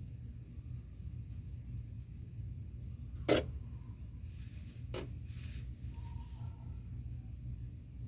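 Crickets chirping steadily in a high, evenly pulsing trill over a low steady hum, with two sharp knocks: a louder one about three seconds in and a softer one a couple of seconds later.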